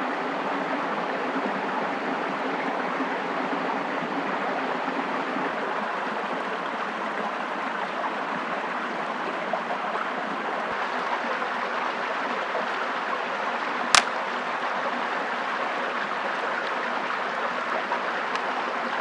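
Steady rushing of water, even and unbroken, with a single sharp click about fourteen seconds in.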